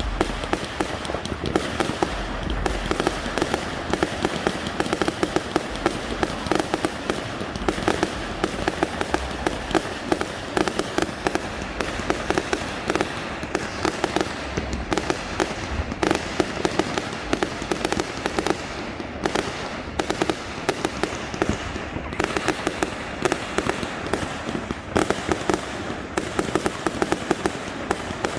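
Fireworks going off: a dense, continuous crackle of many rapid sharp pops, several a second.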